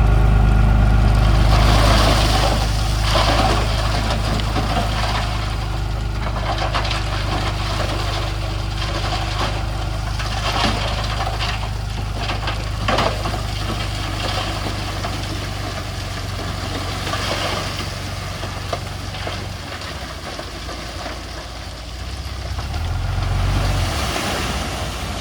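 Heavy diesel earthmoving engine running steadily, with scattered knocks and clatters. It is loudest in the first couple of seconds, and the engine note shifts near the end.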